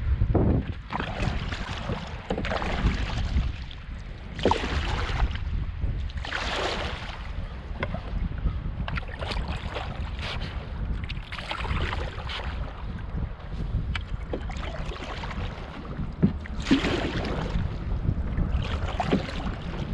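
Canoe paddle strokes, a swishing splash of water every couple of seconds, over a steady low rumble of wind on the microphone.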